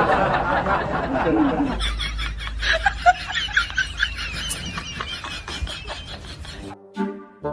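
People laughing and snickering, loudest at first and fading into quieter chuckles. Near the end a brassy music jingle starts.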